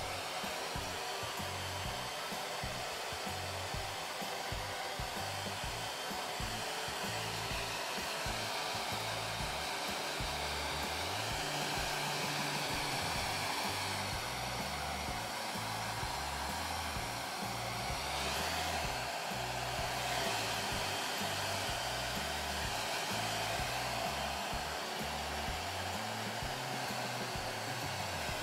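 Handheld hair dryer running steadily, drying a freshly shampooed kitten's wet fur.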